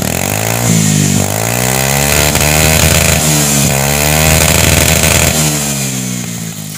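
Honda Beat scooter's single-cylinder four-stroke engine revved up and down repeatedly through a hollowed-out (bobok) YRP88 aftermarket exhaust, loud and fading near the end.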